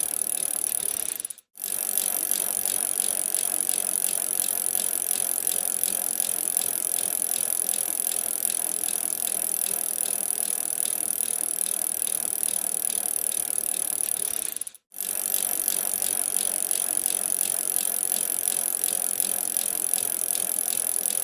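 Bicycle being ridden: a steady rattling with fast ticking from its moving parts, which cuts out for a moment twice.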